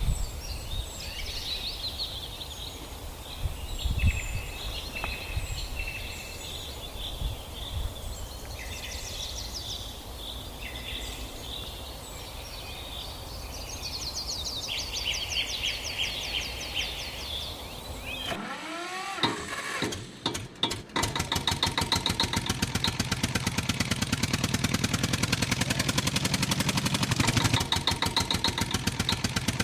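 Birds chirping and trilling for about eighteen seconds, then an engine starts with a rising pitch and settles into steady running with a fast, even chug.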